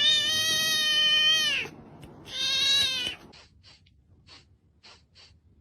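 A cat meowing: one long, loud meow held steady for about a second and a half that drops in pitch at the end, then a shorter, higher meow. A few faint clicks follow.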